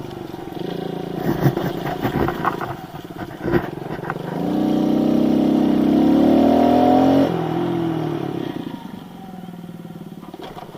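Kawasaki KLX110 pit bike's small single-cylinder engine, with a few knocks and rattles at first. About four seconds in it revs up, rising in pitch for about three seconds, then the throttle is chopped and it drops back and fades.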